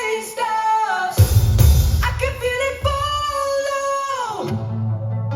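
A male singer's live vocal over band accompaniment, his voice hoarse from a cold. Heavy drums and bass come in about a second in. Near the end the sound slides down into a held low bass note.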